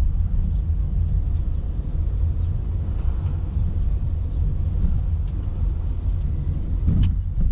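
A car on the move: steady low road and engine rumble, with a short knock about seven seconds in.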